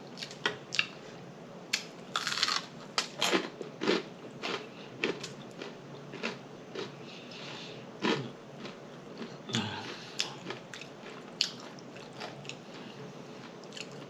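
Close-miked chewing of soul food, with irregular wet mouth smacks and clicks every second or so.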